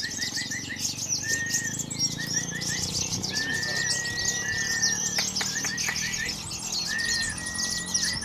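Many caged songbirds singing at once: a dense wall of quick high chirps and trills, with short whistled notes repeated about once a second.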